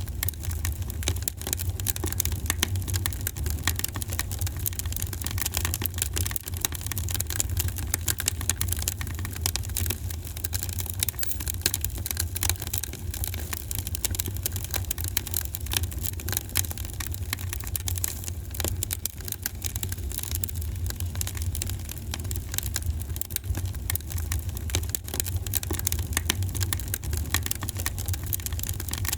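Wood fire in a fireplace burning steadily: a dense run of irregular crackles and pops over a low rumble of the flames.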